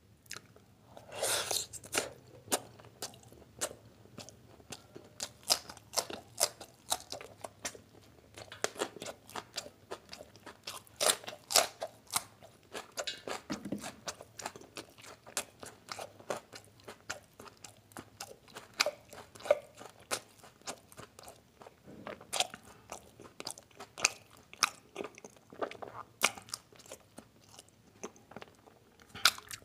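A person chewing mouthfuls of chicken liver curry, with irregular crunching chews and mouth clicks, several a second.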